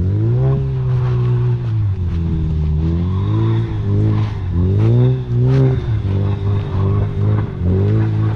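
Ford Focus RS engine revving hard, its pitch climbing and falling over and over as the throttle is worked while the car drifts on snow.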